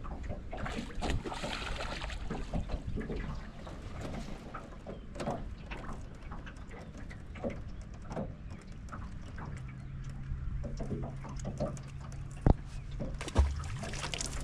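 Small knocks and clicks of gear being handled in an aluminum fishing boat over a low rumble. A steady low electric hum comes in about two-thirds of the way through, and a sharp knock and a heavier thump on the hull follow near the end.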